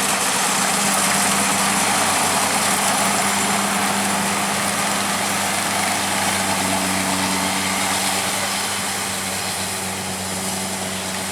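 Kubota DC-70 combine harvester working a rice field: its diesel engine and threshing machinery run steadily with a constant hum and a dense hiss. The sound gradually eases off over the last few seconds.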